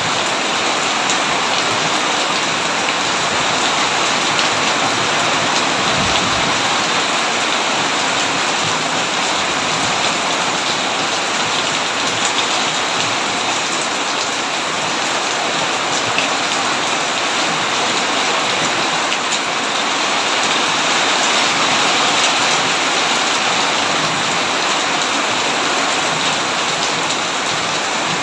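Heavy rain falling steadily on a tin roof, a dense, even hiss with no break.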